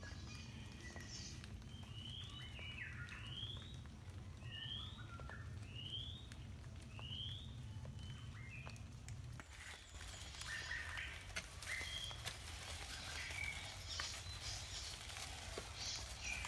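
A bird repeats a short rising call about once a second, six times, over an outdoor background. After about nine and a half seconds this gives way to scraping and clinking of a steel trowel working wet mortar on a concrete-block wall, with birds still calling.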